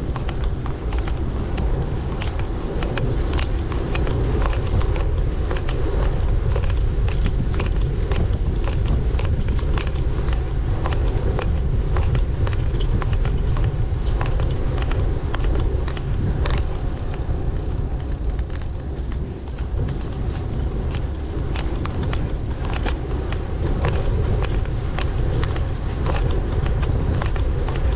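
Ride noise from a bicycle commute: a steady low rumble of road and wind noise with frequent small clicks and rattles.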